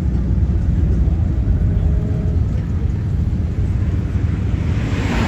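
Classic car engines rumbling steadily as cars cruise past. A louder rush of noise builds near the end.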